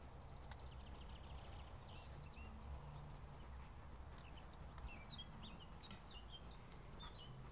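Faint bird chirps: short quick notes, scattered at first and coming thicker past the middle, over a steady low background rumble, with a few faint clicks near the end.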